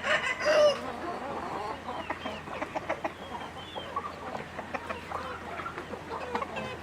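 A flock of chickens clucking, many short calls overlapping, loudest in the first second.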